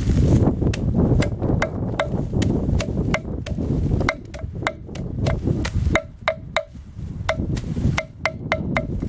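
Repeated sharp chopping blows of a tool striking wood, each with a short ringing note, about twenty in all and unevenly spaced. Near the middle and again near the end they come in quick runs of three or four.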